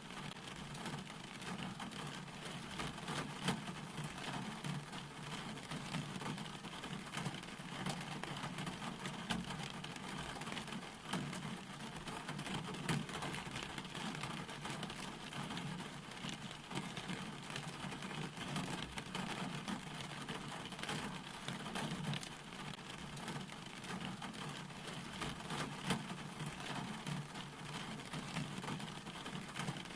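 Steady rain falling, a dense hiss with many small drop ticks.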